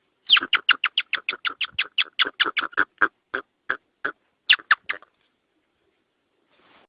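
A bird calling in a rapid run of short, sharp notes, about five a second, that spaces out after about three seconds and stops about five seconds in.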